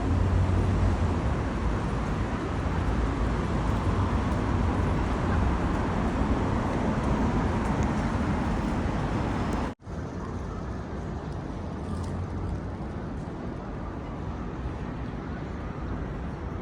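Steady outdoor background noise with no distinct events. It drops out abruptly about ten seconds in and resumes a little quieter.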